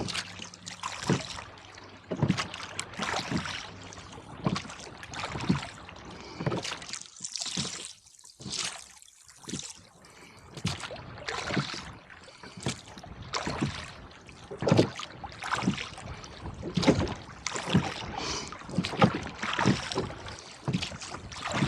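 Water splashing and slapping around a rowboat being rowed through choppy, wind-driven water, in irregular bursts with a short lull about halfway.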